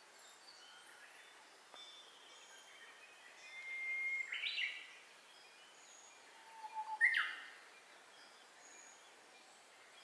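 Wild songbirds singing over a steady faint hiss: a clear whistled note held for about a second, then a quick flourish of notes about four seconds in, and a sharp downward-sweeping call at about seven seconds, with fainter calls from birds further off.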